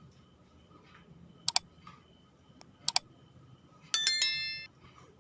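Two sharp double clicks, then about four seconds in a hard, likely metal object clatters with a brief ringing tone that dies away within about half a second.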